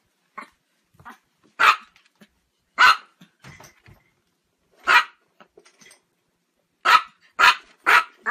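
A dog barking: single sharp barks a second or two apart, then three quick barks in a row near the end.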